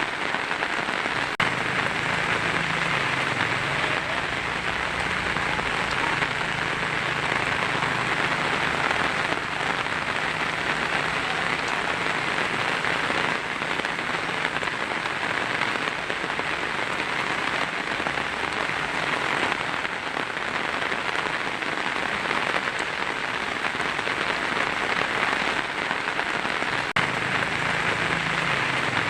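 Heavy rain falling steadily on a tin roof, an even unbroken patter.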